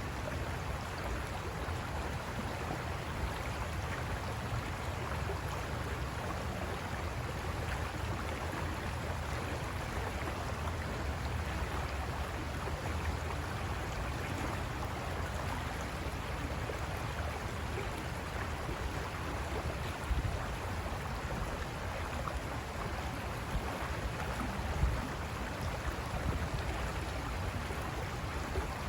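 River water rushing over rocks in a steady, even wash of noise, briefly a little louder twice in the second half.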